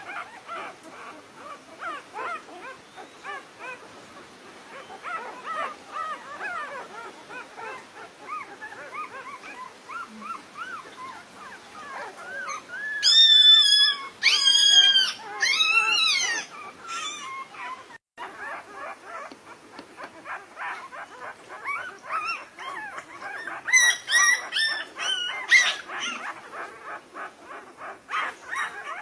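Dogs whimpering and whining in many short, high calls, with a few loud yelps about halfway through and again near the end.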